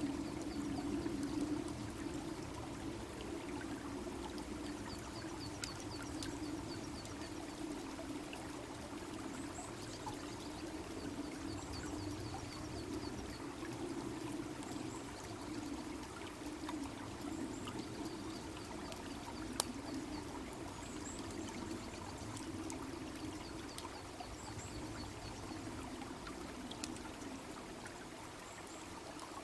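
A babbling brook runs steadily beside a crackling wood bonfire. The fire gives scattered small pops, with one sharp pop about 20 seconds in. A small bird sings a repeated phrase of high, quick chirps on and off.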